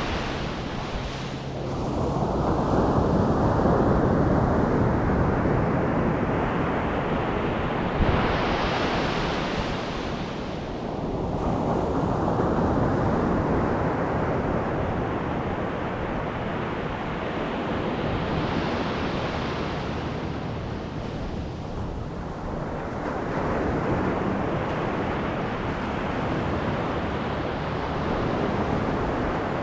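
Ocean surf: waves breaking and washing up the beach one after another, each swelling over a few seconds and then fading.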